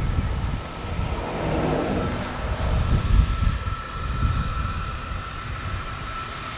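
Aircraft engines running with a steady whine over an uneven low rumble.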